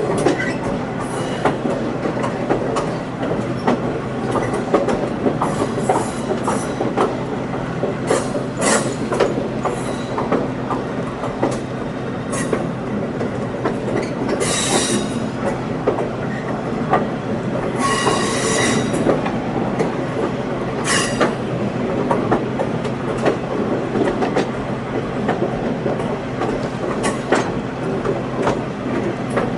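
Passenger car of a moving train heard on board: a steady rumble of wheels on rail with scattered clicks from the track. Brief high-pitched steel-wheel squeals come twice, about halfway through and again a few seconds later.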